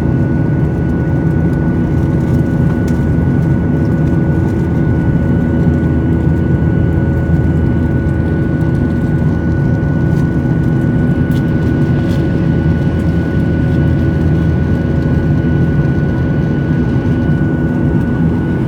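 Boeing 737-800 jet engines and airflow heard inside the cabin: a loud, steady drone with a deep rumble and a thin constant whine, unchanging throughout.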